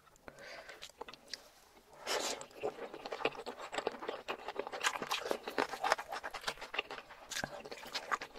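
Close-miked wet chewing and biting of saucy boneless chicken feet: soft mouth sounds at first, then dense, rapid sticky smacks and crunches from about two seconds in.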